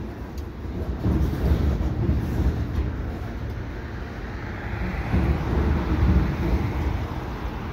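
Freight train tank cars rolling across a steel girder railway bridge overhead: a steady low rumble of wheels on the rails. The rumble swells about a second in and again around five to six seconds.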